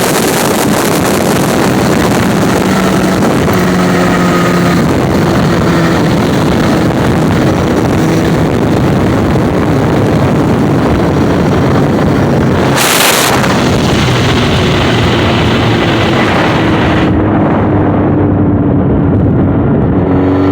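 Motorcycle at very high speed: heavy wind rush over the microphone with the engine's steady note underneath, and a brief louder rush about two-thirds of the way in. Near the end the wind eases and the engine note comes through more clearly and begins to rise.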